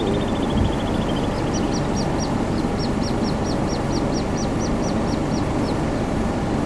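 Little grebes calling: a fast trill tails off in the first second, then a run of short, high, repeated peeps, about four a second, stops near the end. A steady low rumble of background noise runs underneath and is louder than the calls.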